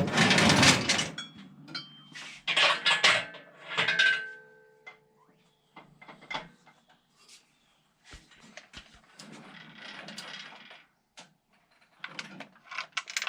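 Steel lifting chain of an engine hoist rattling and clanking against metal as it is handled and hung over the engine. Loud clatters come in the first four seconds, one leaving a brief metallic ring, then quieter scattered clinks.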